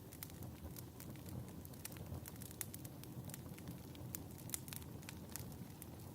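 Fireplace fire crackling: a steady low rumble of burning with many small, sharp pops and crackles scattered irregularly throughout.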